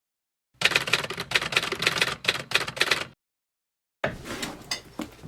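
Rapid typing on a computer keyboard: a dense run of key clicks that stops abruptly, then after a second of dead silence sparser clicks start again.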